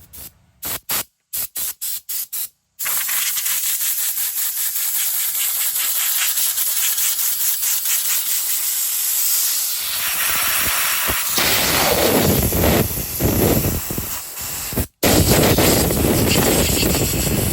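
Chainsaw chain being sharpened: a harsh, steady hissing rasp of metal on the cutters, after a few short clipped bursts at the start.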